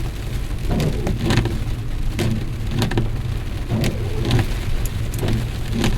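Car interior while driving in heavy rain: steady engine and road rumble with rain on the car, and sharp clicks every half second to a second.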